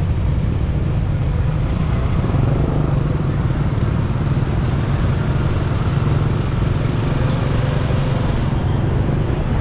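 Onboard sound of a motorcycle riding in road traffic: a heavy, steady wind rumble on the microphone over the bike's engine, tyre noise and surrounding vehicles. The higher hiss drops away near the end.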